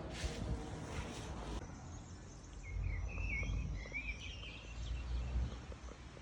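Small birds chirping in a short run of warbling calls from about two and a half to four and a half seconds in, over a low rumble; a hiss covers the first second and a half.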